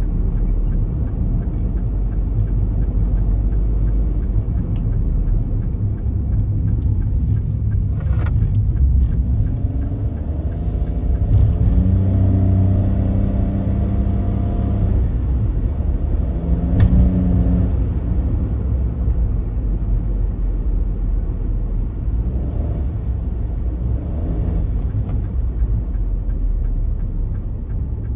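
Car engine running with a steady low rumble; a deeper humming tone swells about midway and again a few seconds later.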